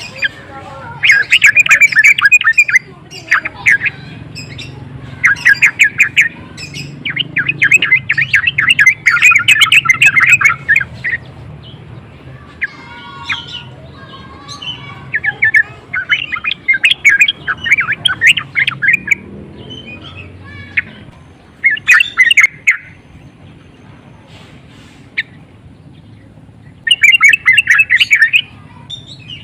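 Yellow-vented bulbul (trucukan) giving loud bursts of fast, chattering calls, each burst one to three seconds long and repeated after short pauses: the excited, agitated song used as a lure to provoke other bulbuls.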